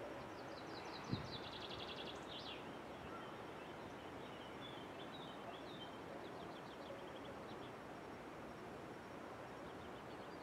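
Faint outdoor ambience: a steady hiss with a small songbird singing several quick, high trilled phrases through the first part, and a soft knock about a second in.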